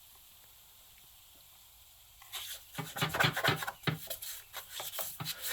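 Rapid scrubbing strokes against a flooded lead-acid battery terminal, cleaning off corrosion, starting a little over two seconds in and getting louder.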